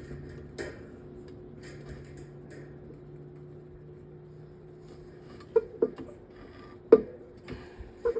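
12-inch metal table fan's electric motor running on a test after cleaning and servicing, giving a steady hum. The lower tone of the hum drops out about five seconds in, and four sharp clicks come near the end.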